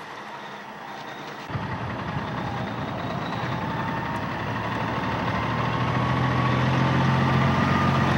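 Ten-wheel dump truck's diesel engine running. About a second and a half in, its low drone comes in suddenly, then grows steadily louder, with a faint whine slowly rising in pitch.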